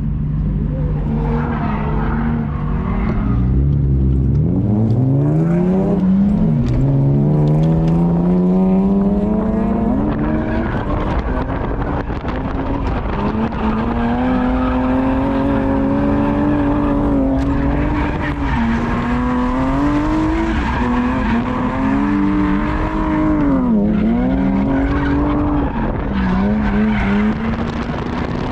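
Drift car's engine revving hard on track: its pitch climbs steeply for several seconds, then stays high with repeated quick dips and pick-ups as the throttle is lifted and reapplied.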